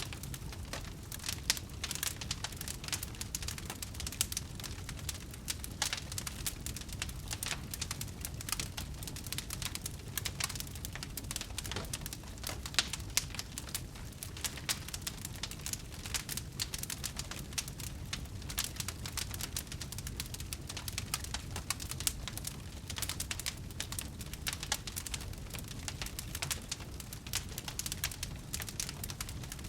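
Burning wood fire crackling: dense, irregular snaps with an occasional louder pop, over a low steady rumble.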